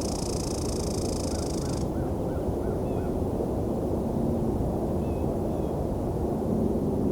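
Wild birds calling in winter woods: a buzzy high call in the first two seconds, a quick run of six short notes, then a few thin slurred calls, all over a steady low rumble.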